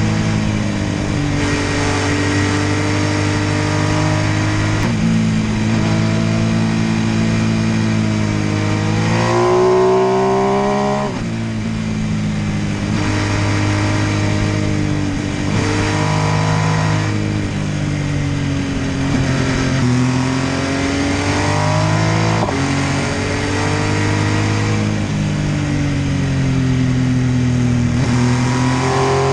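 MV Agusta F3 800's three-cylinder engine running under varying throttle. Its pitch climbs sharply about ten seconds in and drops abruptly, shifts up and down in steps throughout, and climbs again near the end.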